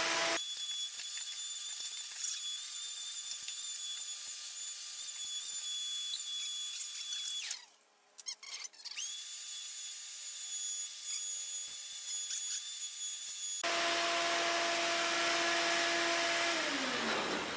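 A handheld power tool running with a steady high whine during engine disassembly. It cuts out briefly about 8 seconds in and spins back up, then runs at a lower pitch and spins down near the end.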